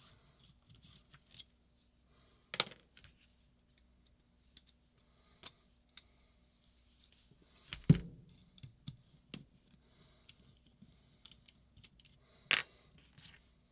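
Small metal parts and hand tools being handled and set down on a workbench during a paintball marker teardown: scattered clicks and clinks, sharp knocks about two and a half and twelve and a half seconds in, and a heavier thud about eight seconds in.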